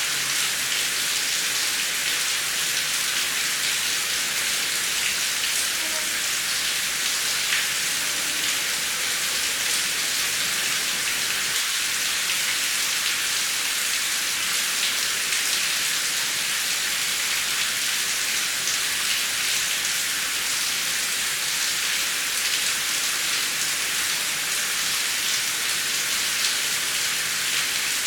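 Heavy rain falling steadily: a dense, even hiss of rain on surfaces with scattered individual drop ticks, no thunder.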